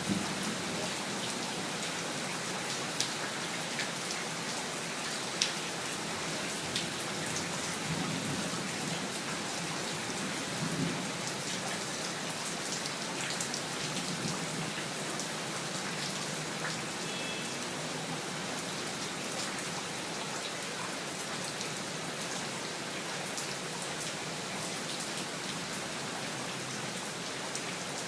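Steady rain falling, with individual drops striking sharply and separately on a nearby surface, most often in the first several seconds.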